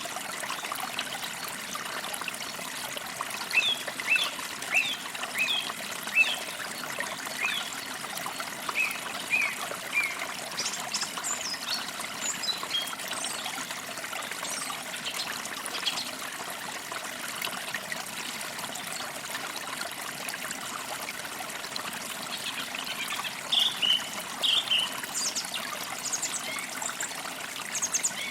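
Forest creek trickling steadily, with small birds chirping over it in short runs of quick notes, most from about three to ten seconds in and again near the end.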